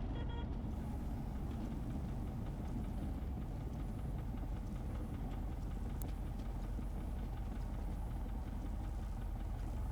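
Steady cabin noise of a Cessna single-engine piston airplane with its throttle pulled back: engine and airframe running evenly, with one faint click about six seconds in.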